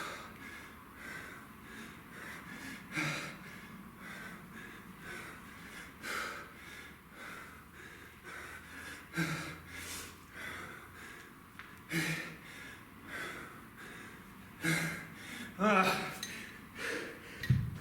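A man breathing hard under exertion, with sharp exhalations and gasps every second or two and a short strained grunt near the end.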